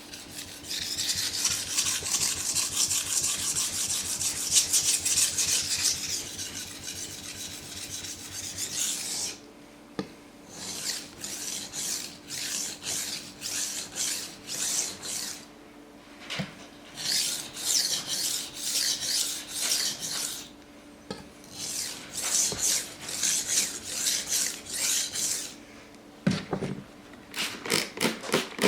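Knife blade stroked back and forth across a coarse King Deluxe 300 grit waterstone, a gritty rasping scrape. A long unbroken run of strokes comes first, then short runs of strokes with brief pauses between them, and quicker strokes near the end.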